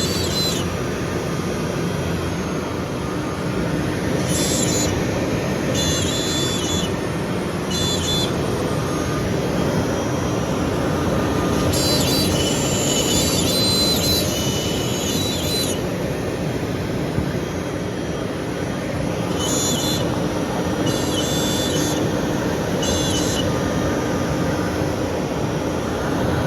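A CNC router shop's machinery running as a steady loud roar, with short higher-pitched stretches every few seconds.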